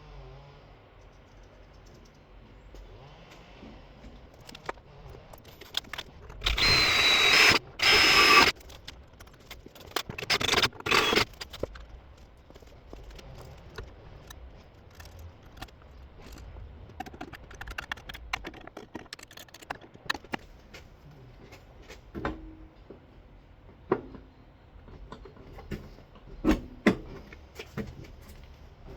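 Electric drill drilling mounting holes, run in two short bursts with a high whine about six to eight seconds in, then another brief noisy burst around ten seconds. Between and after, scattered clinks and knocks of tools and metal parts being handled.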